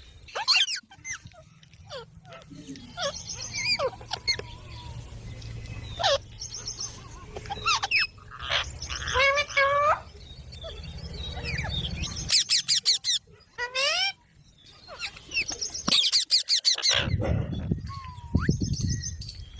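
Pet Indian ringneck parrots (rose-ringed parakeets) calling and chattering: a string of short chirps, squawks and quick rising calls, some in rapid runs, with brief pauses between.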